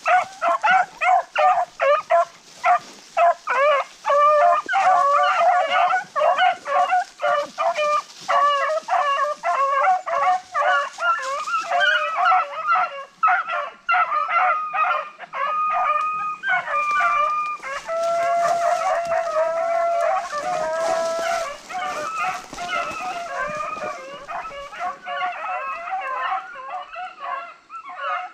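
A pack of deer hounds in full cry, many voices yelping and baying over one another in a rapid chop, with longer drawn-out howls through the second half, as the dogs run game on a drive.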